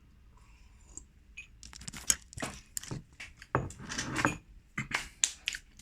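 Snack packaging being handled on a table: a quick run of rustles, clicks and knocks starting about a second and a half in.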